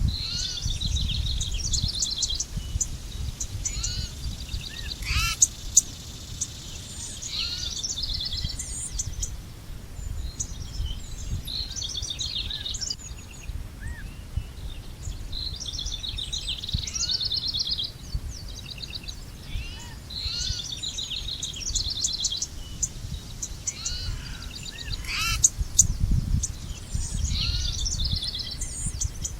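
Several songbirds singing and chirping, with quick repeated trills and short rising notes that come in clusters every few seconds. Under them runs a low, uneven rumble.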